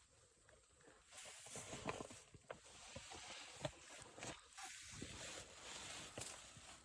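Faint rustling with scattered light clicks and knocks: clothing and gear shifting as hunters settle into a deer stand.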